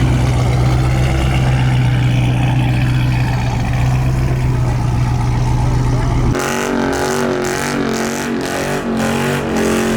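Loud V8 exhaust of a Chevrolet Camaro 2SS, a steady deep drone held at one pitch with no revving. It cuts off suddenly about six seconds in.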